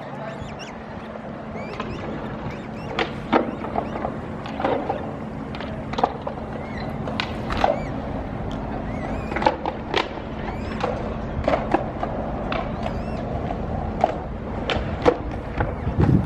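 Short, sharp bird calls and chirps at irregular intervals, over a steady low hum of background noise.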